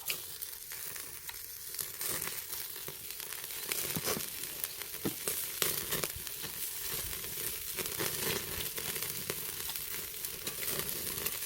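Pork neck sizzling on a grill over a charcoal brazier: a steady frying hiss with frequent sharp crackles and pops as the fat renders.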